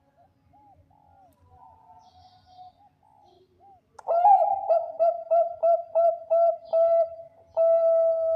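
Zebra dove of the Bangkok strain (perkutut bangkok) cooing. Faint short coos come first; about halfway in a loud song starts, a rapid run of short coo notes that ends on a longer held note.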